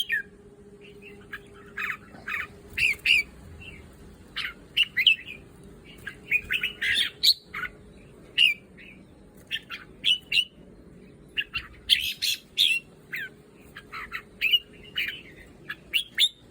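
Red-whiskered bulbuls calling, a run of short, sharp chirps and squawks in quick groups with brief pauses between.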